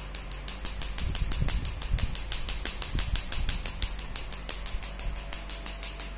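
Q-switched Nd:YAG tattoo-removal laser firing repeated pulses: an even train of sharp snaps, about six a second, over a steady low machine hum.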